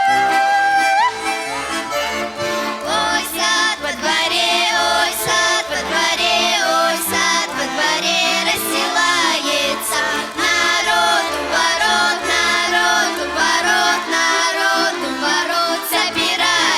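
Accordion playing a Russian folk tune.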